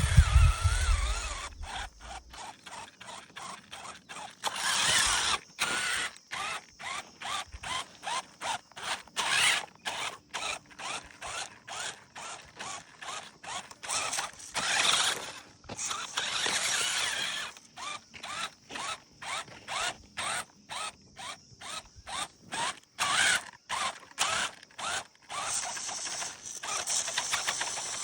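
Toy RC tractor's small electric motor and plastic gearbox whirring in many short bursts, starting and stopping about twice a second, with a few longer runs.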